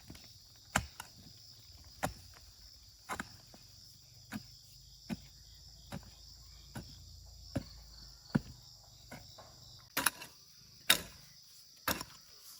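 Sharp knocks about once a second, louder and closer together near the end, over a steady high insect drone.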